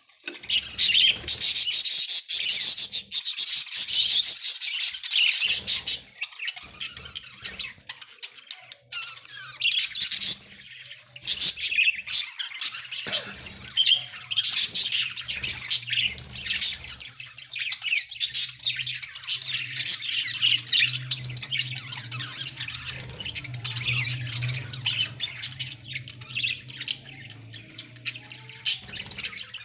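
A flock of pet budgerigars chattering and squawking continuously, busiest and loudest in the first few seconds.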